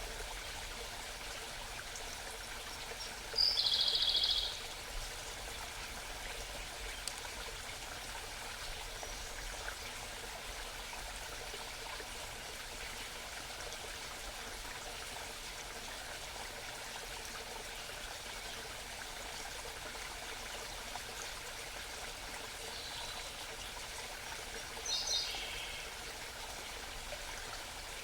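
A small brook running steadily, with a bird's rapid trill of high notes about three seconds in and a shorter, falling bird call near the end.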